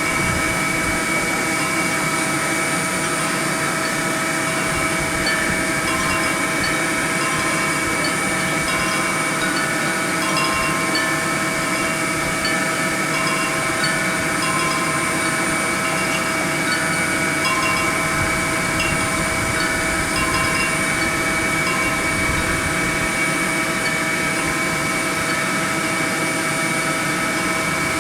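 Honeybee swarm buzzing: a steady, dense hum, with short higher buzzes of single bees coming and going every second or so.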